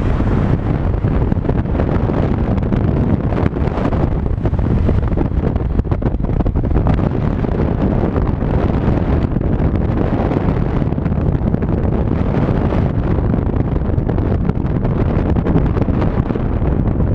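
Loud, steady wind buffeting the microphone on a moving motor scooter, with vehicle running noise beneath it.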